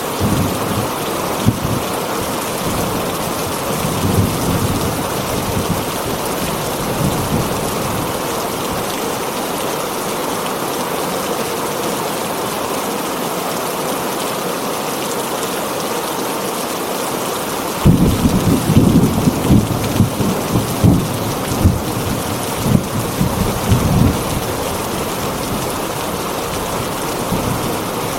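Heavy rain falling steadily on a tin roof, with thunder: low rumbles in the first few seconds, then a sudden louder peal about two-thirds of the way in that rolls on in pulses for around six seconds.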